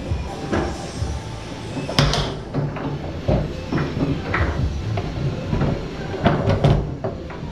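Tornado foosball table in play: the ball and plastic men knocking, rods sliding and clacking. Sharp knocks come irregularly, the loudest about two seconds in and a quick run of them near the end.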